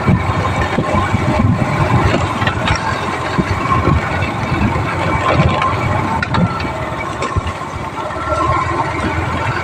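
Motorcycle engine running while riding, a steady rough sound with scattered knocks over it.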